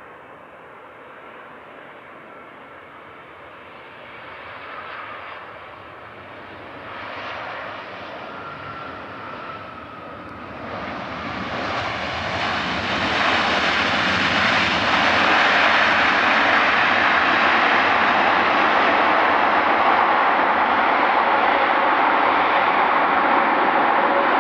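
Jet airliner engines growing louder over the first half, with a faint falling whine about a third of the way in, then a loud, steady engine noise as the aircraft passes close.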